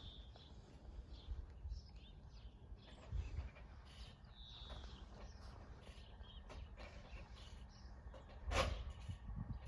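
Birds chirping over a faint, steady low rumble, with one brief louder knock near the end.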